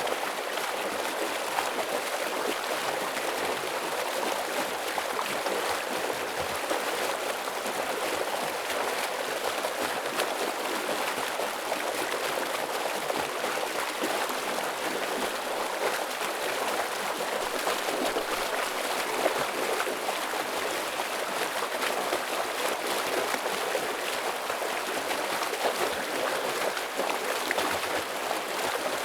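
Heavy stream water rushing and splashing over rocks, a steady dense wash with no breaks.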